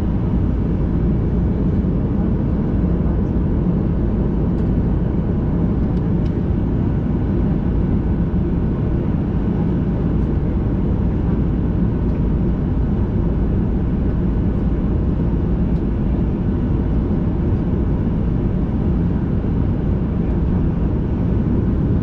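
Steady low rumble inside the cabin of a Boeing 737-800, its CFM56-7B engines running at low power and the airframe rumbling during the roll after landing.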